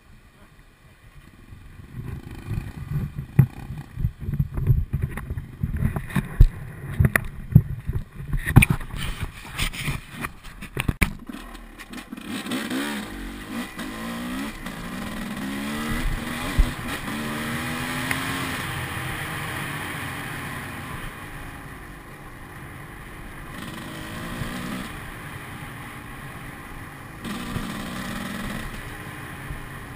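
Enduro dirt bike engine revving up and down. Many knocks and clatter fill the first ten seconds or so, then the engine pitch rises and falls repeatedly.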